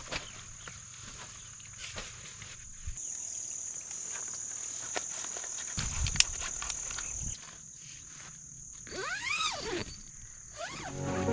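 Insects chirring steadily in a continuous high drone that grows louder for a few seconds in the middle, with a few scattered clicks. Near the end comes a short pitched animal call that rises and falls, then a briefer one.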